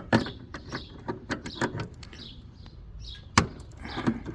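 Scattered light clicks and taps of hand tools on metal fittings while refrigerant service valves are being worked, with one sharper click about three and a half seconds in.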